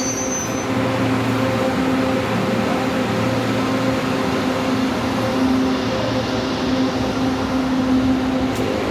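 Manila LRT Line 2 train giving a steady electric hum with a few held tones over a noisy background. The high squeal of its wheels dies away within the first second.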